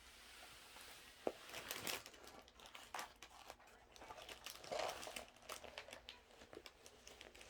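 Plastic crinkling and rustling from handling diamond painting kit materials, in irregular small crackles with one sharp click a little over a second in.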